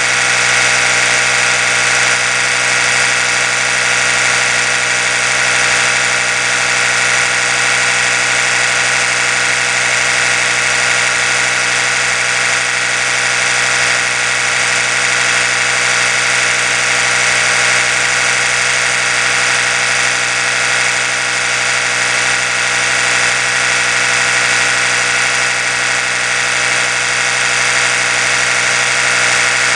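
Oral-B electric toothbrush running with a steady, unbroken buzz that holds the same pitch throughout.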